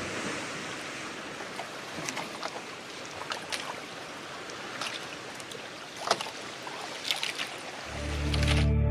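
Sea water sloshing and splashing against a boat, with sharp slaps of water every second or so. Near the end, ambient music with a deep held tone fades in.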